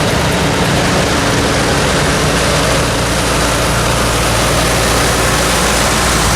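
Antique farm tractor engine running steadily at a low, even note.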